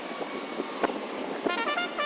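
Steady hiss of distant expressway traffic with two short knocks, then background music with a stepping melody starts about three-quarters of the way through.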